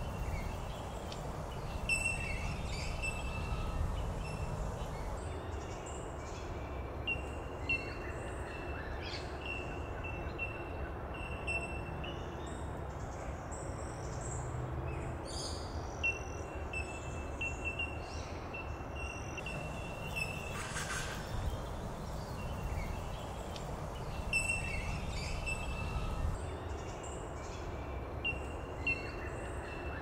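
A bird repeats short, high, clear notes at a single pitch, again and again with gaps, over a steady low rumble of outdoor background noise.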